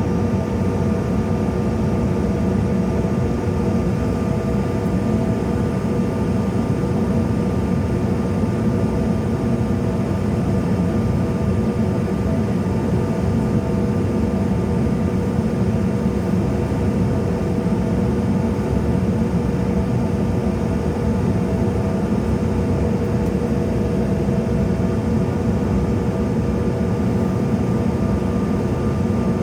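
Steady cabin noise of a CRJ-700 regional jet: a constant low rush from its rear-mounted GE CF34 turbofans and the airflow, with a few steady whining tones over it.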